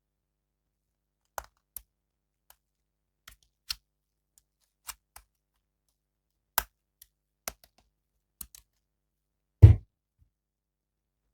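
Irregular clicks and taps of plastic toy packaging and figure parts being handled, with one louder thump near the end.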